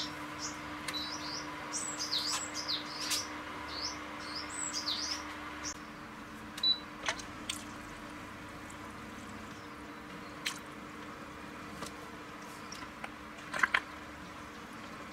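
Small birds chirping in quick rising and falling notes through the first half, then a few sharp clicks or taps, the loudest of them in a cluster near the end. A faint steady hum runs underneath.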